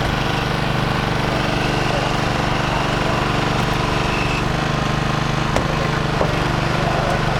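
A vehicle engine idling steadily, with two brief clicks about two-thirds of the way through.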